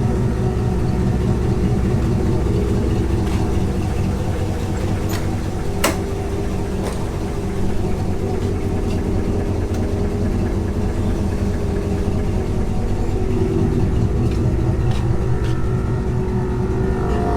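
Carbureted 350 small-block Chevy V8 idling steadily and smoothly, with one sharp click about six seconds in.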